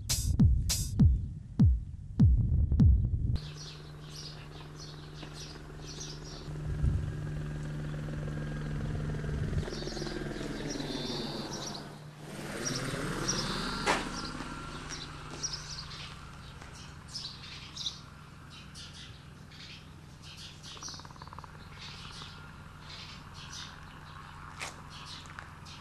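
Electronic music cuts off about three seconds in, leaving small birds chirping over a low steady hum. Near the middle a louder sound swells and then fades away.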